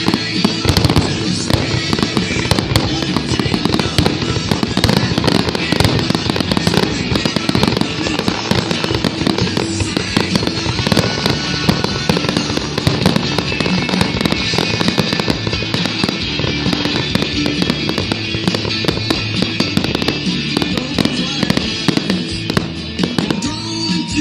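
Aerial fireworks going off in a dense, rapid barrage of bangs and crackle, with patriotic music playing underneath.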